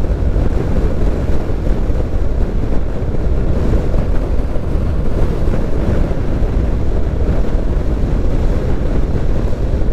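Steady wind rush on the microphone over the running of a motorcycle at road speed.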